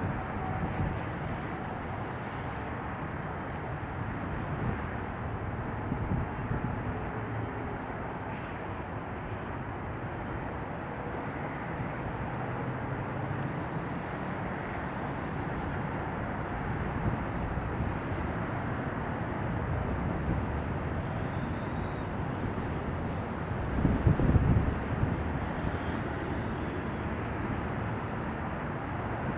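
Steady rushing noise of a Bombardier CRJ-700's twin rear-mounted GE CF34-8C turbofans as the jet lands and rolls out. A gust of wind buffets the microphone near the end.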